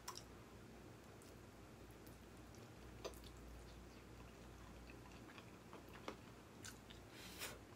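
Faint mouth sounds of a person eating spaghetti: soft chewing with a few scattered small clicks and smacks, over near silence.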